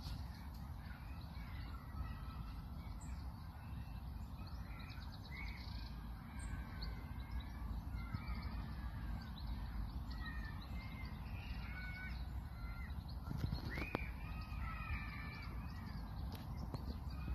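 Birds calling and singing in the trees, a string of short warbling phrases throughout with a louder call near the end, over a steady low rumble.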